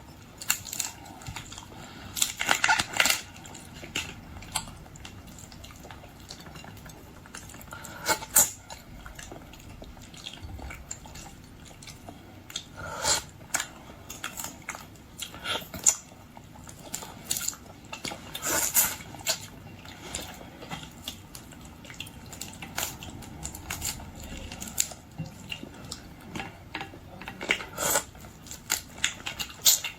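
Close-up eating sounds of shellfish: irregular crackles of shells being cracked and peeled, chewing, and scattered clicks of utensils and shells against dishes.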